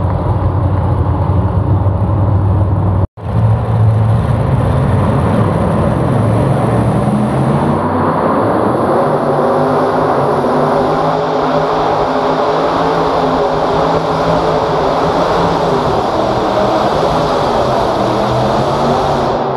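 Heavy engine running hard under load on a pulling run: a loud, steady drone whose pitch climbs a little about six to eight seconds in. The sound cuts out for an instant about three seconds in.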